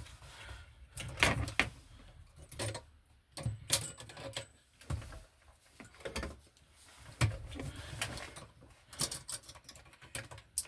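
Irregular clicks, taps and knocks of an MC cable connector being worked into an electrical box's knockout by hand, with handling noise between the strikes.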